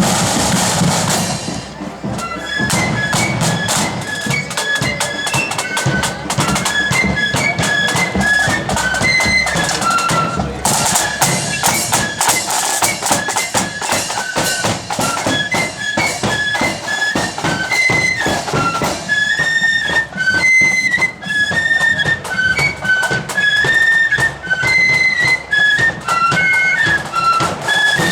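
Blood-and-thunder marching flute band playing: after a couple of seconds of drums alone, the flutes come in with a high, quick-stepping melody over rapid snare and bass drum beats.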